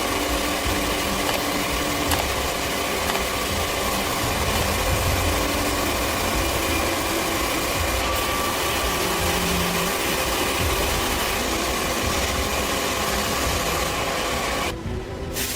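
A motor running steadily, with a brief dip near the end.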